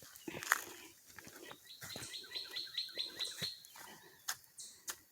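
A bird calling a rapid run of about nine short, high, evenly repeated notes in the second and third seconds, which is taken for a mating call. Scattered sharp clicks and knocks sound throughout.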